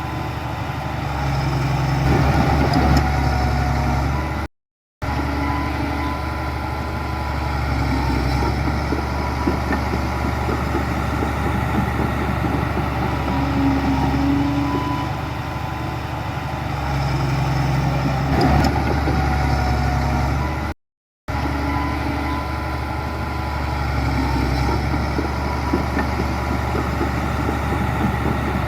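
Heavy diesel earthmoving machinery running steadily, a bulldozer or dump truck engine droning with a faint steady whine. The sound drops out to silence twice for a split second, about five seconds in and again about twenty-one seconds in.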